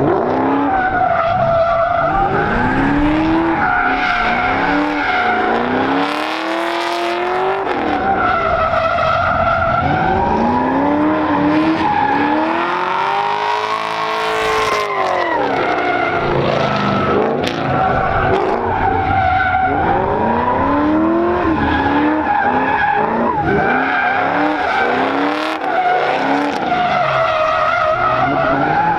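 Drag cars at the strip: engines revving up and down again and again over a continuous tire squeal, as in burnouts.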